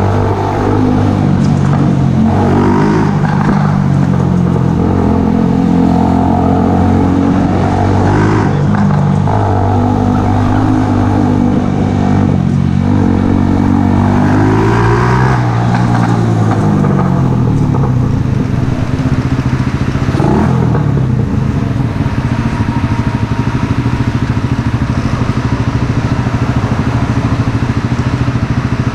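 Mash Café Racer 125's single-cylinder four-stroke engine running through a Megaton aftermarket exhaust. For the first half the revs rise and fall several times, then the engine settles to a steady, even note.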